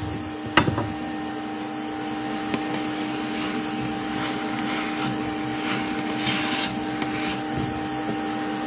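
Bee vacuum motor running with a steady hum, used for sucking bees off the comb; a single sharp knock about half a second in.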